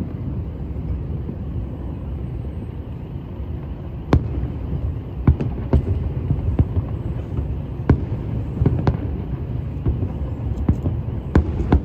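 Scattered sharp fireworks pops at irregular intervals, starting about four seconds in, over a steady low city rumble.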